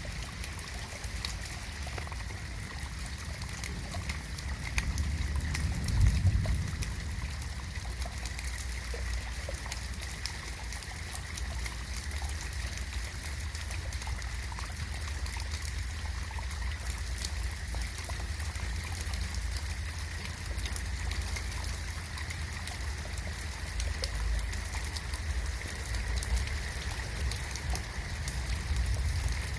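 Steady rain with many small drops pattering and water trickling, over a low rumble that swells briefly about five to six seconds in.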